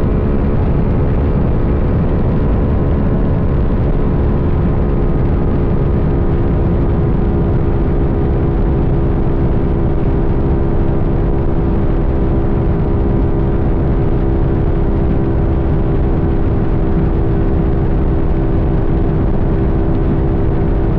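Sportbike engine running at a steady speed under way, its pitch holding level, over a low rumble of wind and road noise.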